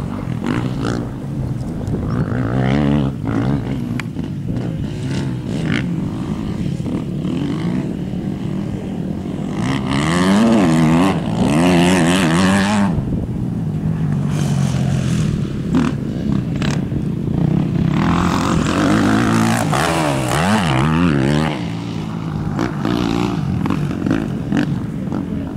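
Motocross bike engine revving hard and easing off again and again, its pitch swinging up and down, loudest about ten seconds in and again near twenty seconds.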